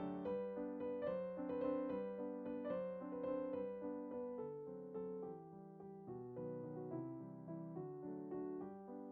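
Gentle background piano music: soft notes struck in a slow, steady flow, each one ringing out and fading.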